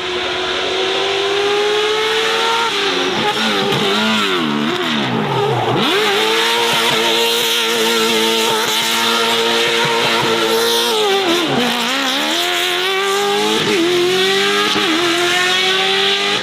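Race car engine running at high revs up a hill course. Its pitch dips and wavers twice as it slows and changes down, then climbs again as it accelerates away.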